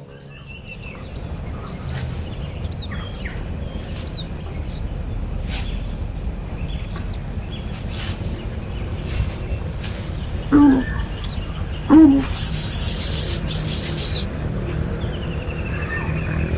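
Small birds chirping in short scattered calls over a steady high whine and a low rumble, with two louder, lower calls about two-thirds of the way in, followed by a brief hiss.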